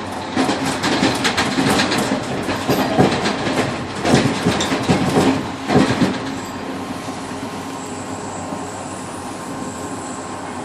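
Passenger train heard from inside the rear car: the wheels clatter in a quick, irregular series of knocks over rail joints and points for about the first six seconds, then settle into a steady rolling rumble.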